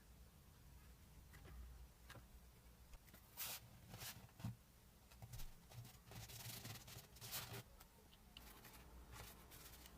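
Faint rubbing and scraping, in a few short irregular strokes through the middle, against near silence.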